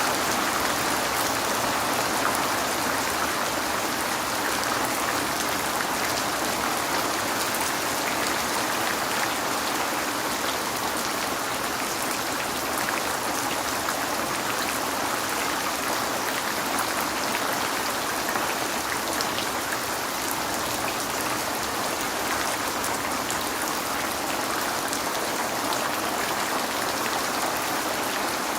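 Steady rain, a continuous even hiss with scattered faint drop ticks, billed as rain falling on a window.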